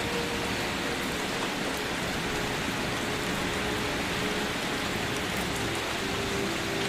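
Steady rain falling, an even hiss of many drops with no let-up. A faint low held tone sits underneath.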